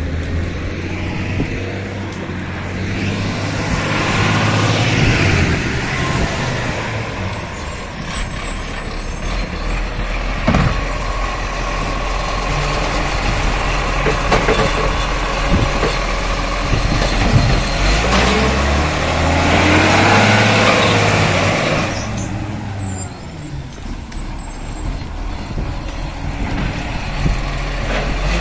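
Garbage truck's diesel engine running, with two swells of louder noise, about four seconds in and again around twenty seconds in.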